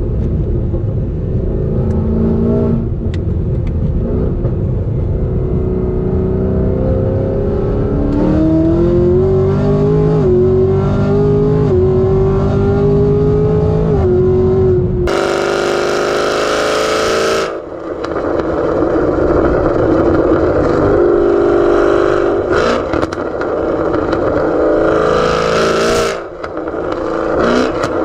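Camaro ZL1 1LE's supercharged V8 with a cam, headers and a Corsa Extreme exhaust, loud, cruising and then accelerating with the pitch climbing from about a third of the way in. Just past halfway the sound changes abruptly and the engine goes on running hard, with brief drops in revs near the middle and near the end.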